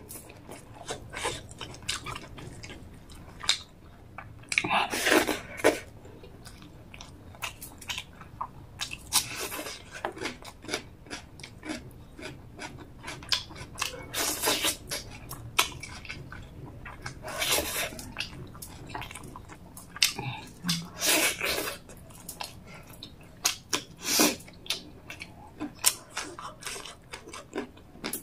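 Close-miked chewing of rice and chicken gravy eaten by hand: continual wet mouth clicks and smacks, with louder wet mouth sounds every few seconds.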